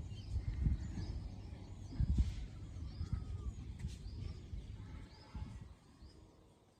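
Birds chirping in short, repeated calls over an irregular low rumble with soft thumps, fading away near the end.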